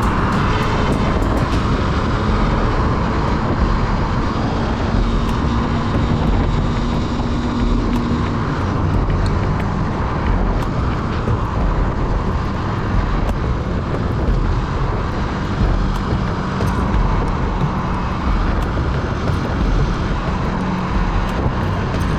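Motorcycle riding, its engine running under a steady rush of wind noise on the onboard camera's microphone. A steady engine note holds for the first eight seconds or so, then fades into the rumble.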